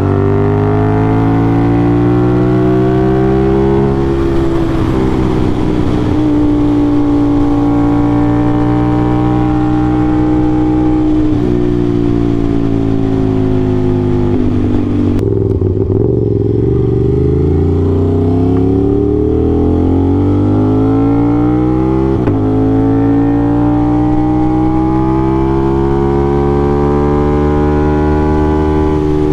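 Aprilia RS660's parallel-twin engine through an SC-Project CRT exhaust, ridden hard: the engine note climbs under throttle and drops suddenly at gear changes, eases off about halfway through, then picks up and climbs steadily again toward the end.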